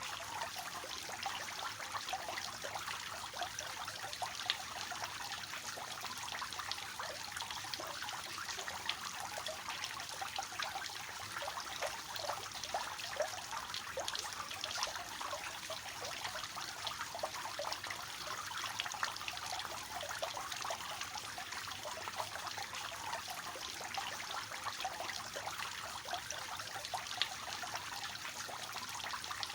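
Water falling and splashing steadily from a three-tier cascading fountain, an even trickling and splashing.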